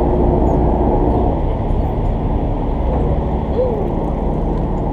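Party boat's engine running steadily with a low drone, easing off slightly about a second in.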